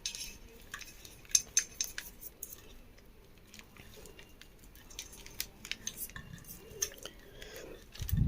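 Light metallic clicks and taps of tools and small parts being handled while working on a ceiling fan, scattered and irregular, with a cluster of sharper clicks a second or two in and a soft low knock near the end.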